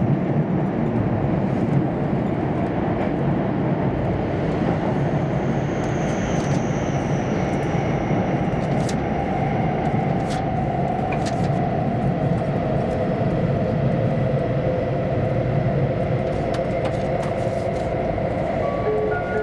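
Inside a running E4 series double-deck Shinkansen: steady rumble of wheels on rail and running gear, with a few light clicks and a faint tone sliding slowly down in pitch.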